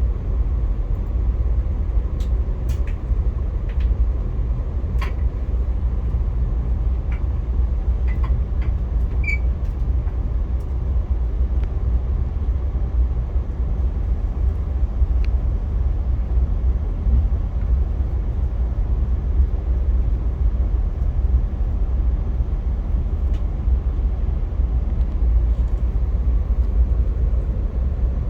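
Steady low rumble of a Via Rail passenger train running along the track, with a few light clicks and ticks scattered through the first dozen seconds.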